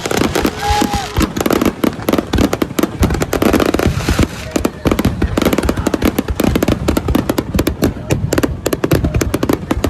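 Fireworks display: a rapid, unbroken barrage of bangs and crackles, with a short whistle-like tone about a second in.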